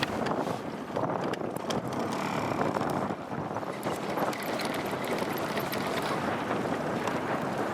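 Steady rushing noise of strong wind and choppy water around a small fishing boat, with a few faint clicks.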